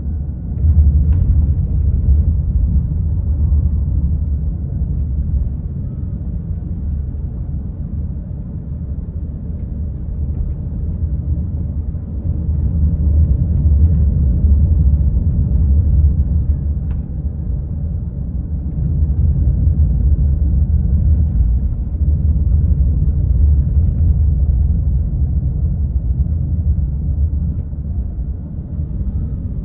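Low rumble of a car on the move: road and engine noise, swelling and easing every few seconds.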